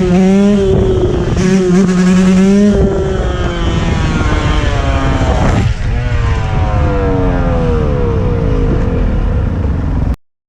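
Dirt bike engine revving, its pitch climbing and holding for the first few seconds. From about six seconds in it winds down in long falling glides, then the sound cuts off abruptly near the end.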